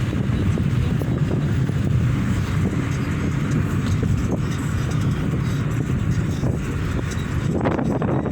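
Steady rumble of a car driving along a road, engine and tyre noise running evenly.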